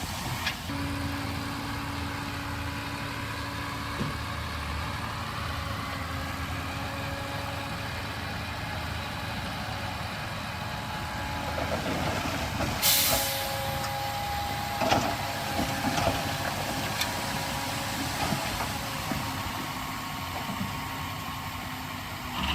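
Heavy diesel construction machinery engine running steadily, with a short sharp hiss of air about halfway through and a few knocks soon after.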